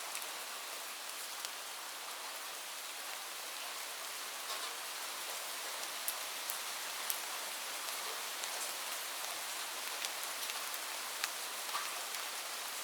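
Light rain falling steadily, a continuous patter with individual drops ticking sharply here and there.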